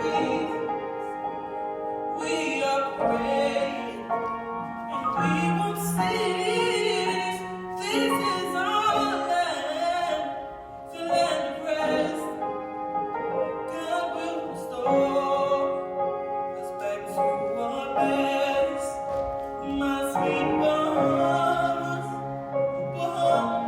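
Recorded music: a woman singing a slow song in a full, operatic style, holding long notes with vibrato over sustained accompaniment.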